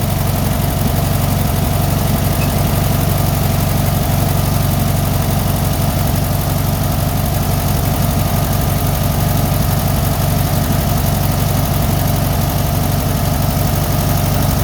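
1965 VW Beetle 1.2-litre air-cooled flat-four engine idling steadily at an even speed.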